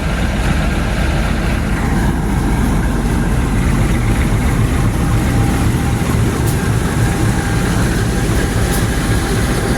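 Train running: a steady, loud, low engine rumble.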